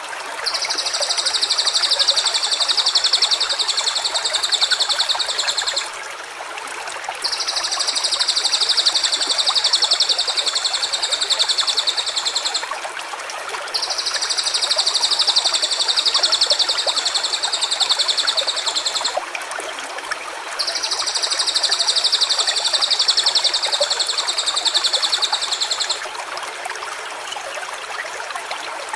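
A high-pitched, rapidly pulsed trill held for about five seconds at a time, four times with short pauses, over the steady running of a stream.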